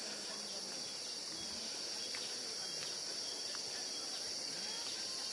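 Steady high-pitched chorus of insects, continuous, with a few faint ticks.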